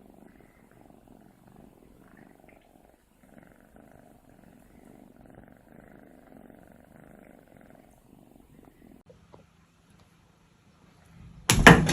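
A cat purring softly and evenly for about eight seconds, then stopping. Near the end comes a sudden loud burst of sound.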